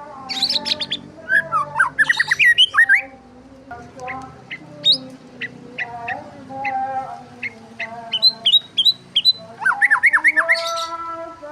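Several birds chirping and squawking, with rapid clusters of quick, sharp chirps in the first few seconds and again near the end, and scattered single chirps between.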